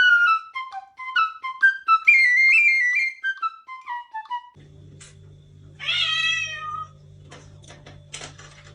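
A short run of quick flute-like notes stepping up and down, then a cat meowing once, a long call that falls in pitch at the end, about six seconds in, over a low steady hum.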